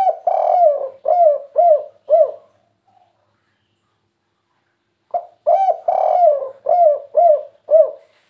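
Spotted dove singing its "kuk 3" song twice. Each phrase opens with a long coo and ends in three short notes; the second phrase starts about five seconds in.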